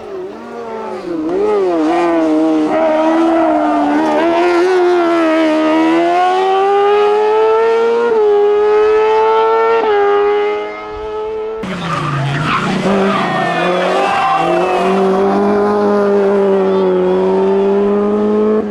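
Race car engines running hard on a hillclimb: the engine note climbs and drops with throttle and gear changes. About two-thirds of the way through it switches abruptly to another car's engine.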